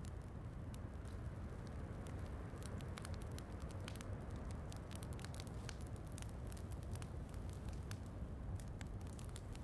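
Wood fire crackling, with frequent sharp little pops at irregular intervals, over a steady low rush of rain.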